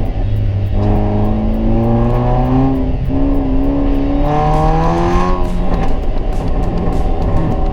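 Hyundai i20's modified exhaust under acceleration: the engine note rises in pitch, drops at a gear change about three seconds in, then rises again before easing off.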